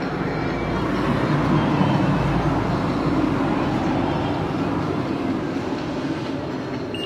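A train running through the station, a broad rumble that swells over the first few seconds and then slowly fades. A short electronic beep comes right at the end.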